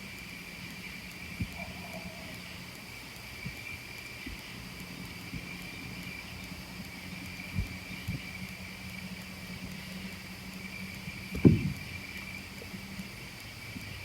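Night insects chirring steadily in the background over a low steady hum. A few short knocks, with one sharp loud knock about eleven seconds in.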